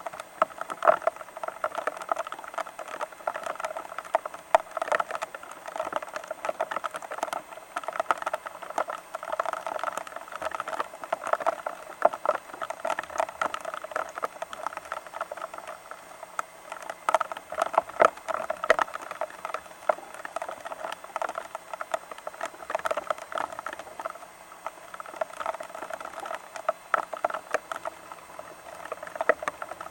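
Rain pattering steadily on a nearby surface, a dense crackle of many small drops with no rhythm.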